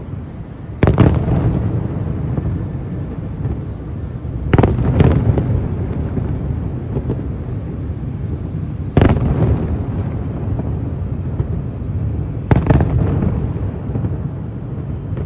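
Aerial fireworks shells bursting: four loud booms about four seconds apart, the second and fourth doubled, over a steady low rumble between them.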